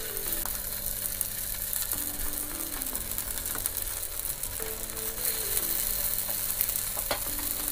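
Potato-poha tikkis sizzling in a little oil on a hot dosa tawa (flat griddle) as they are laid on it, a steady hiss. Soft background music plays underneath.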